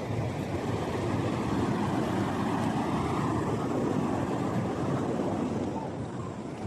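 Ocean surf: a wave rushing in and washing up, swelling about a second in and easing off near the end.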